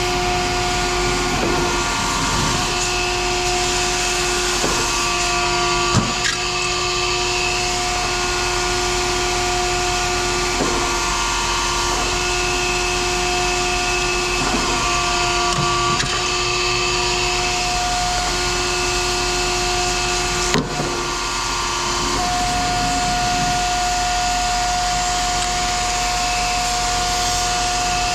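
A machine's motor running steadily with a steady whine, with a couple of short knocks, one about six seconds in and one about two-thirds of the way through.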